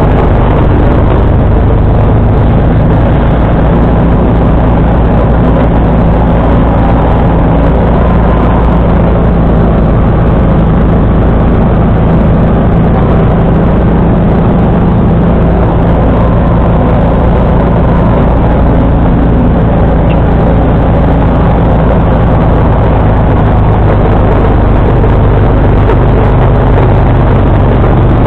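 John Deere 445 garden tractor's V-twin engine running steadily under load while driving a 47-inch snowblower.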